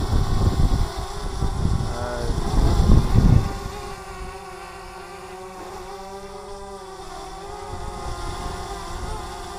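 DJI Mavic Mini drone hovering: a steady propeller whine whose pitch wavers as the motors correct against the wind. Loud wind rumble on the microphone for the first three and a half seconds, then only the drone.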